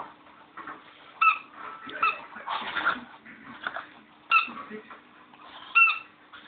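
Squeaky toy bone squeaking as a Bichon Frise chews it: four short squeaks, about a second in, at two seconds, past four seconds and near six seconds, with rougher scuffling noise between them.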